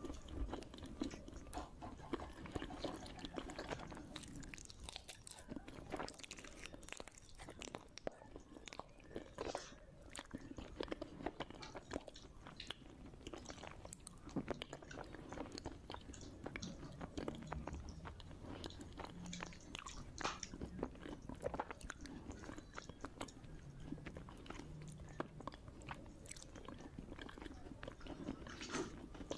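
A person chewing mouthfuls of khichdi eaten by hand, with irregular mouth clicks and smacks.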